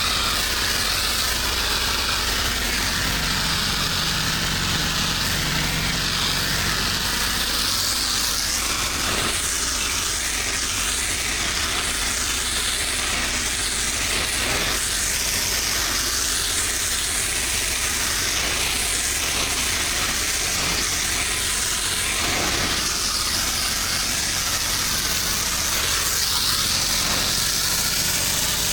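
Pressure-washing equipment running steadily: an engine hum under a continuous hiss of water spraying.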